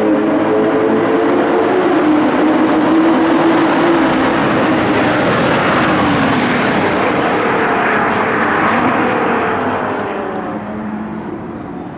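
Nissan GT-R R35's straight-piped twin-turbo V6 running hard at speed, its engine note steady at first. A rush of noise swells about halfway through, then the note drops in pitch and fades near the end, like a car going past.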